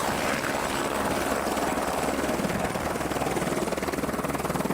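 Helicopter in flight, its rotor blades beating in a fast, steady rhythm over the engine noise.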